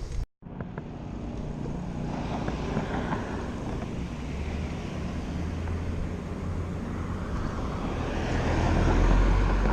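Steady rumbling ride noise from a bicycle on a paved trail: wind on the microphone and tyres on the pavement, swelling louder near the end.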